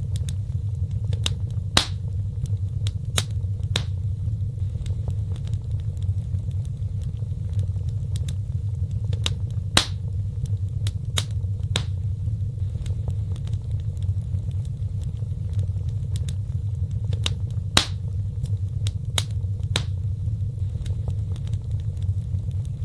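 Wood fire crackling: scattered sharp pops and snaps over a steady low rumble of burning, with three louder pops about eight seconds apart.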